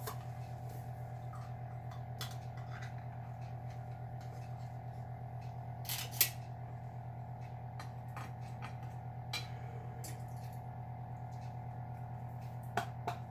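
Scattered light clinks and knocks from a spoon working a can of chicken and rice soup into the bowl, with one sharper knock about six seconds in, over a steady low hum.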